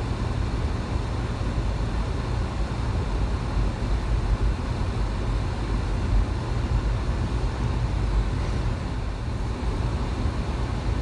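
Steady low rumble of a car driving, with road noise from the tyres and engine, heard from inside the cabin.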